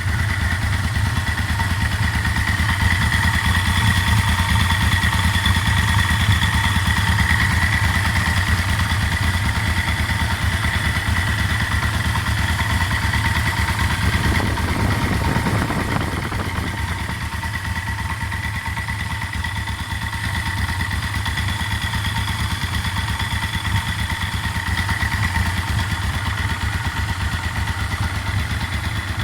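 Yamaha V-Max V4 motorcycle engine idling steadily at full operating temperature, with the knocking noise that appears once the oil is hot. The owner suspects low oil pressure and places the knock on the clutch side of the engine.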